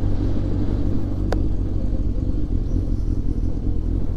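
Yamaha Fazer 600 motorcycle engine running steadily with a low rumble. There is a single sharp click about a second in.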